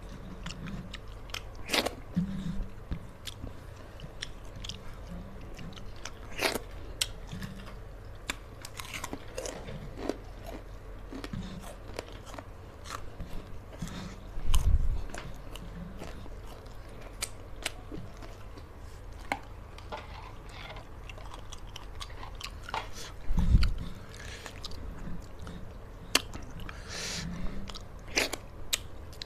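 Close-miked eating sounds: a person chewing and crunching fried fish and rice eaten by hand, with many small clicks and smacks of mouth and fingers. Two dull low thumps stand out, one about halfway through and one about three quarters of the way in.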